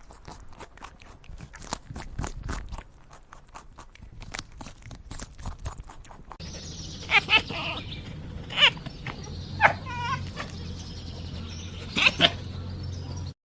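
A rapid irregular run of sharp clicks or taps, then several short, high animal calls, one of them wavering, over a steady low hum.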